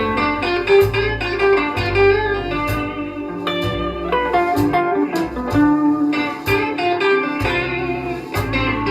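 Blues electric guitar solo, picked single notes over a slow backing band with bass and drums, played from a vinyl record through a hi-fi system's loudspeakers.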